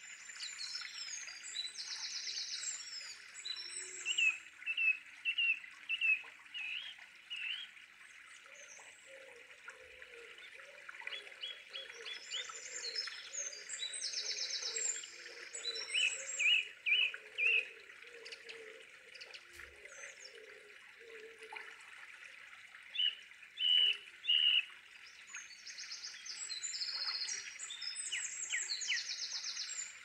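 Several birds singing and chirping over a steady hiss. The same run of song comes back about every 13 seconds.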